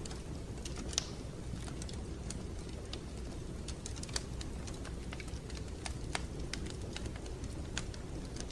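Fireplace fire crackling: irregular sharp pops and snaps, a few seconds apart or closer, over a steady low rumble of the flames.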